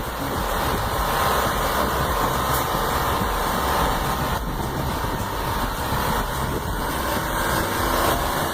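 An 18-wheeler's engine running steadily.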